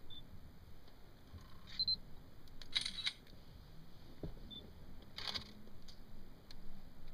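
Camera shutter firing twice, about two and a half seconds apart, each a short rattle of clicks. Brief high beeps, like autofocus confirmation, come a few times in between.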